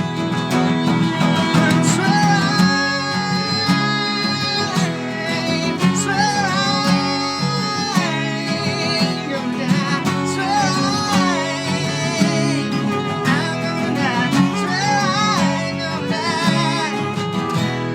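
Live band playing an instrumental passage: a violin carries the melody with vibrato over guitar, bass and drums.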